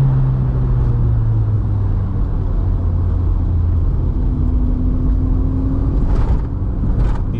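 Mk2 Volkswagen's 1.8T turbocharged four-cylinder engine pulling at steady revs while driving a mountain pass, with road rumble under it.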